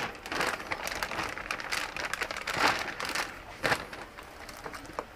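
Large plastic zip-top bag crinkling and rustling as raw chicken halves are set into it, in irregular crackles with a few sharper crinkles.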